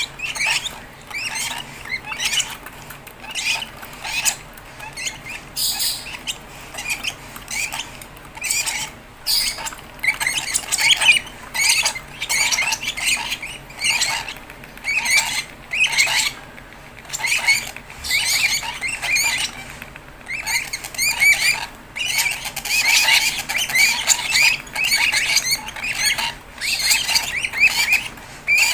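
Fischer's lovebird chicks giving rapid, high-pitched squeaky begging calls in repeated bursts of a second or two, the food-begging calls of chicks being hand-fed.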